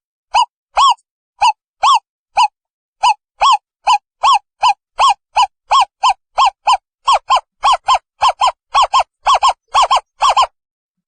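An owl calling a long series of short, clear hoots, each rising and falling in pitch. The notes speed up from about two a second to three or four a second, then stop shortly before the end.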